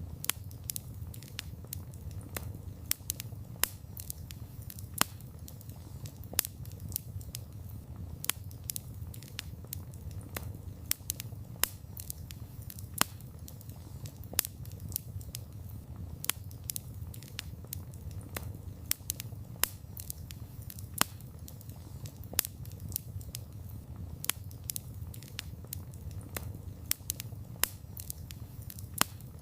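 Wood fire burning, with sharp irregular crackles and pops a few times a second over a low steady hiss and rumble of the flames.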